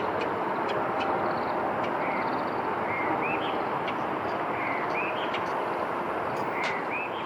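Bird calls: short arched notes, mostly in pairs, about three times over a steady rushing noise, with a few faint clicks.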